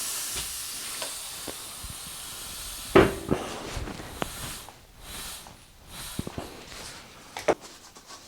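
Air hissing out of a 1962 KTM Ponny De Luxe scooter wheel's inner tube as the tyre is let down, the hiss fading away over the first few seconds. A sharp knock comes about three seconds in and another near the end.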